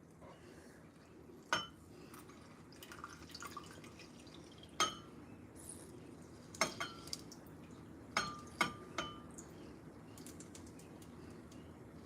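Dishes and utensils clinking in a kitchen: about eight sharp clinks, each with a short ring, several in quick succession past the middle.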